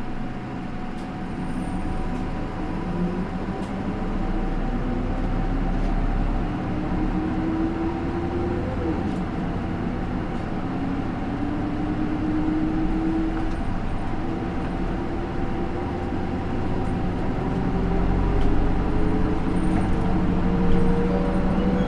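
Interior running sound of a Hino Rainbow II bus with an Isuzu 4HK1-TCH four-cylinder turbo diesel and Aisin automatic gearbox, accelerating: the engine note rises, drops at upshifts about nine and fourteen seconds in, and climbs again.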